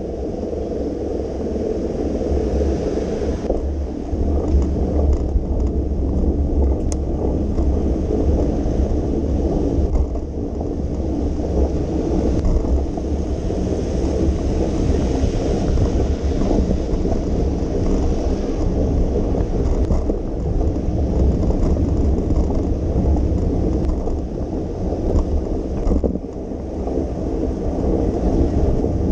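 Steady low rumble of wind on the microphone and tyre noise from a bicycle riding along rain-wet city streets, with a fainter hiss above it.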